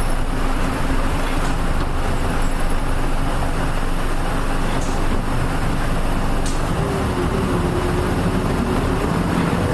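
Interior running sound of a Nissan Diesel KL-UA452MAN city bus: diesel engine and road noise heard from inside the cabin, steady while the bus is under way, with a low engine tone coming up about two-thirds of the way through.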